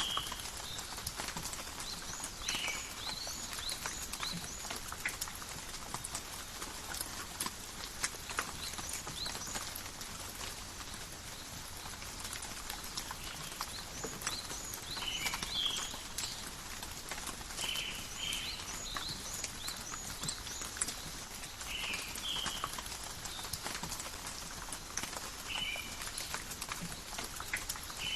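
Steady light rain in a forest: a soft hiss of rain with many separate drops ticking on leaves and surfaces. Short high animal calls come in ones and twos every few seconds.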